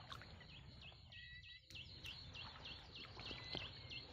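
Faint bird calls: a quick series of short dipping chirps, about three or four a second, over a low steady rumble.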